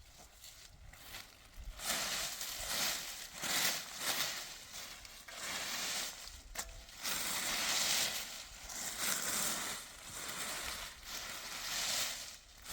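Irregular crunching and rustling noise in uneven bursts, starting about two seconds in.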